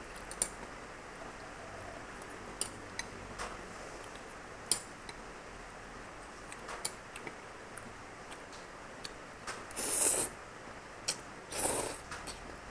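A fork or spoon clicking and scraping against a plastic takeaway spaghetti tray while eating, in scattered single clicks. Two brief, louder noisy sounds come near the end.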